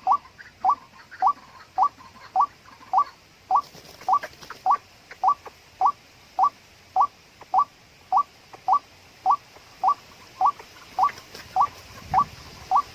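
White-breasted waterhen call: a short rising note repeated at a very even pace, a little under two a second, the lure call used to draw waterhens to the snare.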